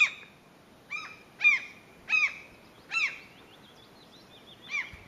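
Gull giving about six short, harsh alarm calls, each dropping in pitch at the end, unevenly spaced: a parent gull defending its nest and chicks.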